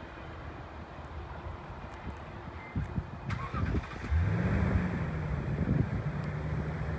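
Low rumbling with a few knocks. About four seconds in, an engine throttles up: its note rises in pitch, then holds steady.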